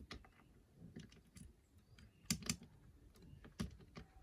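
Light, irregular metallic clicks of a multi-pick lifting and probing the levers inside a 5-lever mortice lock during picking, with two louder clicks about two and a half seconds in.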